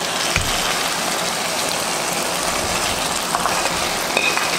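Onions and sauces sizzling steadily in a hot pan, with a dull thud about half a second in and a few light metal clinks near the end as the fried chicken is added.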